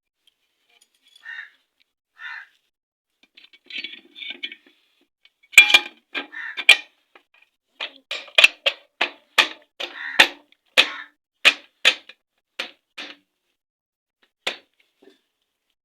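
Hammer tapping a Honda Shine engine's crankcase half (cover) down onto its bearing: a few faint clicks, then, from about five seconds in, a run of about fifteen sharp, ringing knocks at roughly two a second, with one last tap near the end.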